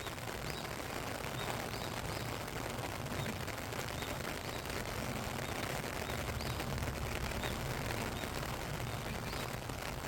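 Steady rain falling, a dense, even patter with no let-up.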